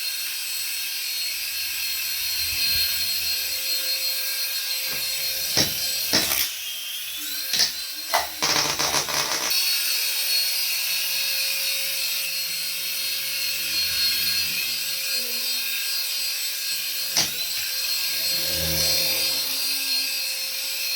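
Small electric motor of a remote-control toy whirring steadily at a high pitch, with a few sharp clicks and knocks from handling the toy.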